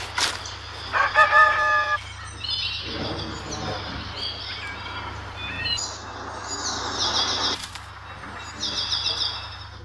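Bird calls: a long, rooster-like crow about a second in, then several runs of short high chirps, over a steady low hum.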